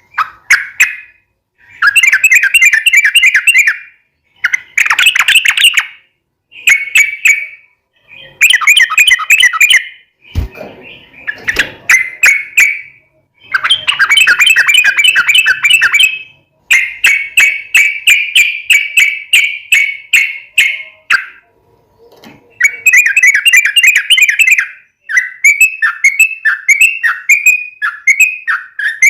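Yellow-vented bulbul singing in loud bursts of rapid, bubbly chattering notes, each phrase one to three seconds long with short pauses between. Near the end it breaks into separate chirps at about three a second.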